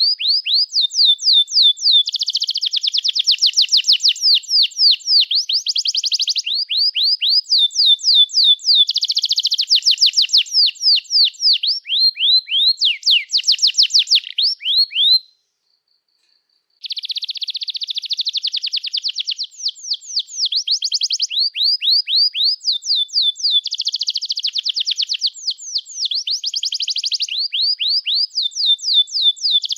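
Domestic canary singing a long song of rapid trills: fast, repeated falling notes alternating with dense buzzy rolls. It stops for about a second and a half midway, then carries on. This is a long 'gacor' song of the kind played as a tutor song for young canaries learning to sing.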